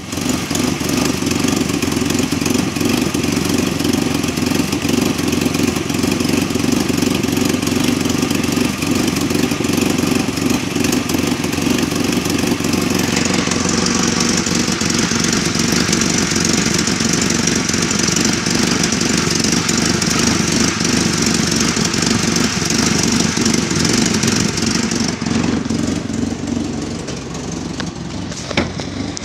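Toyota Hilux 2.7-litre petrol four-cylinder engine running steadily at idle, heard with the bonnet open. It gets quieter near the end as it is heard from inside the cab.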